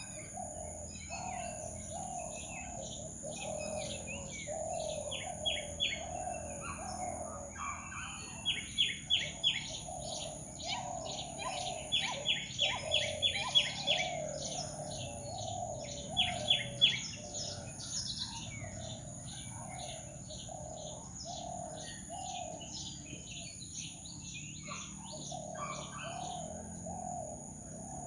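Jungle birds calling together. A low falling note repeats about twice a second throughout, and quick runs of sharp high chirps stand out now and then, loudest in the middle. A steady high-pitched whine runs underneath.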